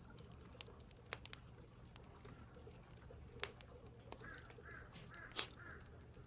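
A crow cawing faintly four times in quick succession about two-thirds of the way in, over scattered sharp clicks.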